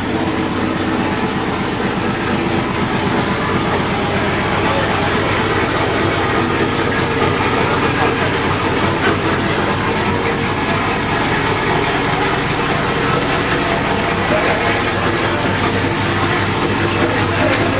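A vehicle engine running steadily at an even speed, with a fast regular pulsing.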